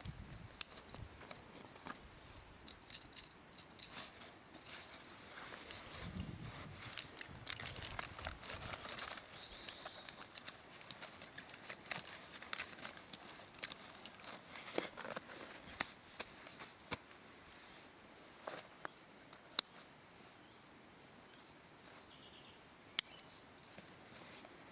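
Waterproof fabric rustling and crinkling, with scattered sharp clicks and a few louder snaps, as a rain cover is fitted over a backpack and a rain jacket is handled. The handling is busiest in the first half and thins out near the end.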